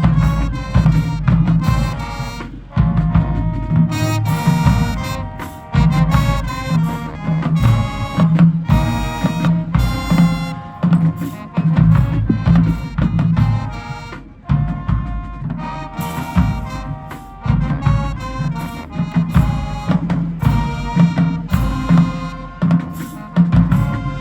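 High school marching band playing, a brass melody over drums with sharp accented hits and a brief drop in volume about two thirds of the way through.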